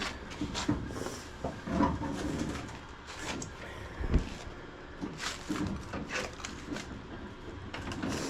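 Irregular knocks and clicks of hands handling parts and working on the truck, with the engine not running.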